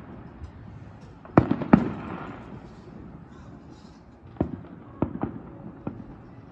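Distant fireworks going off in a scattered series of sharp bangs, each with a short echo. The two loudest come close together about a second and a half in, followed by several quieter single bangs near the end.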